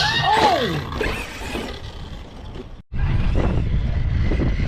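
Brushless motor of a 1/8-scale Arrma Notorious 6S stunt truck whining up and down in pitch, opening with a hard hit. The sound cuts out sharply about three seconds in, then returns as a steady low rumble.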